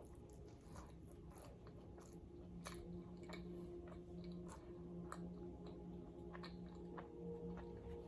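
Close-up chewing and crunching of nacho chips, a string of faint, irregular crunches.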